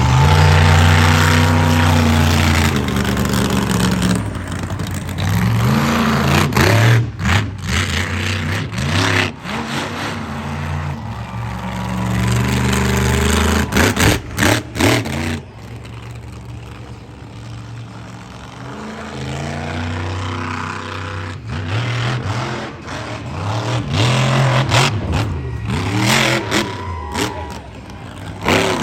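Motor-vehicle engines revving up and down repeatedly, with several sudden breaks.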